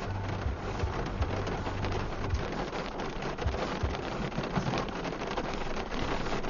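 Rain falling on a moving car, a steady dense patter of drops, with a few brief low knocks.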